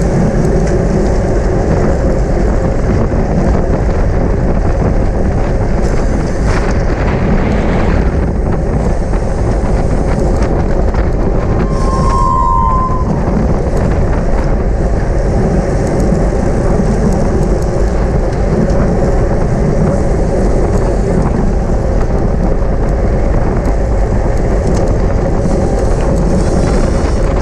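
Loud, steady wind rushing over the microphone of a camera riding along on a bicycle at race speed. About twelve seconds in comes a brief high tone.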